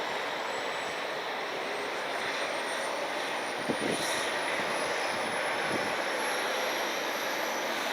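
Jet engines of a United Express Embraer E175 regional jet running steadily, with a faint high turbine whine that slowly rises in pitch.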